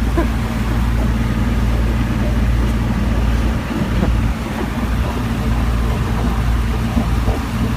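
Sailboat's inboard engine running steadily under way, a constant low drone.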